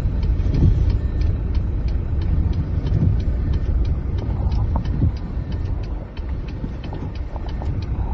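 Outdoor wind noise during a snowstorm: a loud, gusting low rumble on the microphone, with many faint quick ticks throughout.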